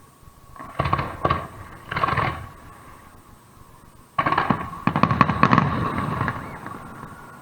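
Aerial fireworks shells bursting: a few separate bangs in the first half, then, about four seconds in, a loud burst followed by a quick run of crackling reports that dies away.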